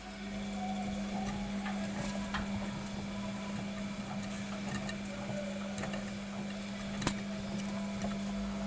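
Old Bosch washing machine partway through a cottons 40 °C cycle: a click, then a steady electric hum that runs on, with a few light ticks and a sharper click about seven seconds in.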